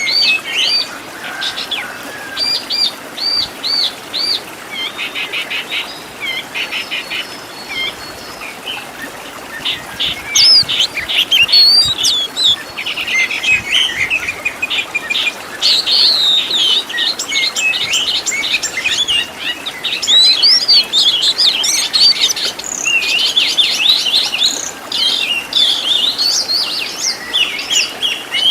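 Oriental magpie-robin (kacer) singing a long, varied song. It runs through clear whistles, runs of quick repeated notes and fast rattling trills, with fill-in phrases of other birds' calls.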